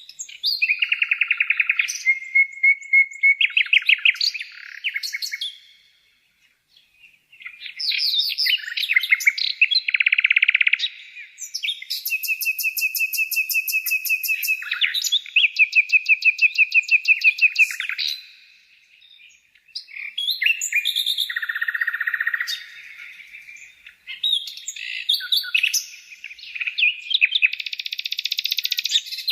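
Songbirds singing: quick trills and runs of repeated chirps in phrases of a few seconds, broken twice by brief silences.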